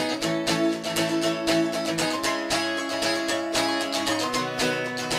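Music: a strummed acoustic guitar playing a steady rhythm, an instrumental gap between sung lines of a song.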